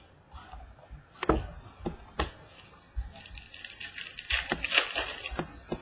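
Basketball trading cards handled one after another: several sharp clicks and snaps as cards are flicked against each other, with a stretch of crisp rustling in the second half.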